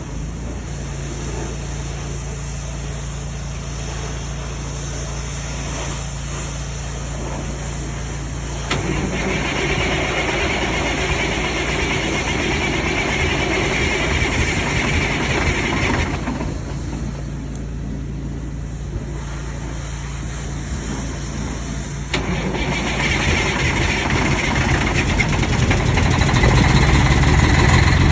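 Freightliner truck's Detroit diesel engine running at idle on a cold start. It gets louder and harsher about nine seconds in, eases back about sixteen seconds in, then picks up again about twenty-two seconds in and keeps rising toward the end.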